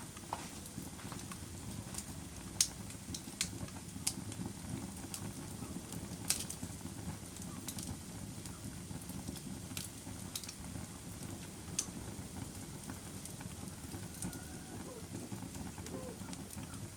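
Wood fire burning in a fireplace: a steady low rush of flames with sharp crackles and pops every second or two.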